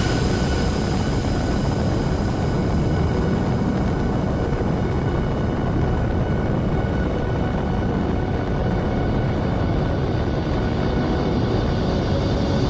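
Helicopter running steadily: an even roar of rotor and engine with a faint high steady whine over it.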